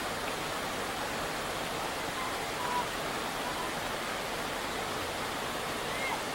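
Steady rush of a flood-swollen river pouring over a weir.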